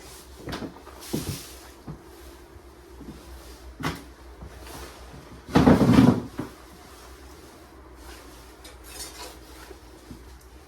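A few separate knocks and clatters of objects being handled, with a louder, longer clatter a little past the middle.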